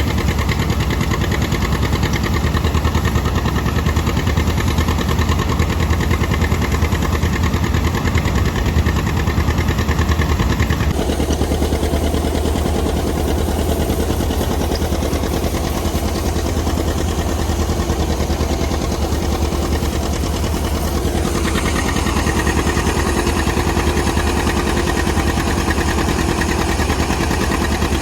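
Tractor engine running steadily at idle. Its tone shifts about 11 seconds in and again about 21 seconds in.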